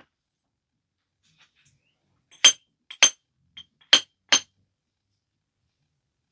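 Flintknapping strikes on a stone biface, clinking sharply as flakes are struck off in its refining. There are four main blows between about two and a half and four and a half seconds in, with a few lighter taps among them, and each blow has a short ring.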